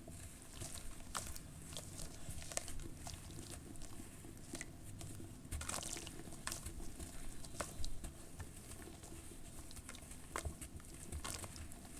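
Dry charcoal ash crunching and crumbling, a run of irregular sharp crackles and small snaps as the brittle lumps break apart.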